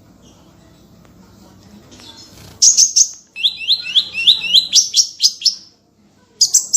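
Small songbird singing after a quiet start: loud bursts of rapid high chattering notes, with a run of quick repeated slurred whistles in the middle. A brief pause comes before another burst near the end.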